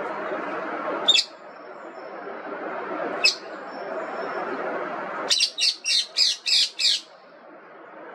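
Indian ringneck parakeet shrieking: two single sharp squawks a couple of seconds apart, then a quick run of six shrill squawks at about four a second, over a steady background hiss.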